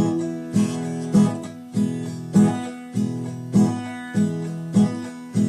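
Guitar strummed alone in a steady rhythm, a chord struck a little under twice a second.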